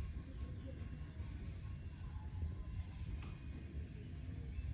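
Insects chirping in an even, rapid pulsing trill, over a low rumble of wind on the microphone.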